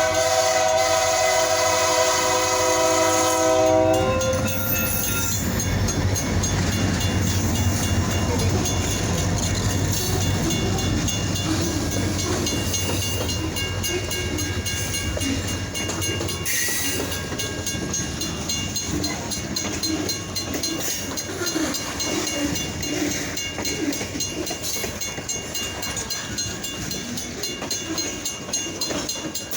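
Kiamichi Railroad SD40-2 diesel locomotives sound their air horn in a steady chord that cuts off about four seconds in. Then comes the steady noise of the train passing, slowly fading.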